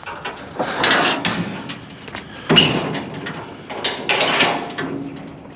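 Bursts of scraping and rustling with a few knocks, in three loud stretches about a second and a half apart: handling noise of something being moved or opened.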